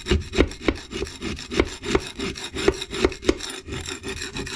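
A blade shaving down the corner of a wood-burning stove's back brick. The scraping strokes repeat about three times a second.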